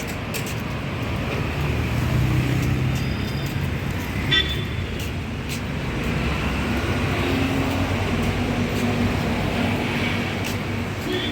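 Road traffic: engines of passing vehicles running steadily with road noise, and one short vehicle horn toot about four seconds in.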